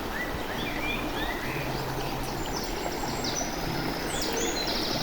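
Steady rush of running stream water, with birds calling over it: short rising chirps in the first second or two, then quick repeated high notes.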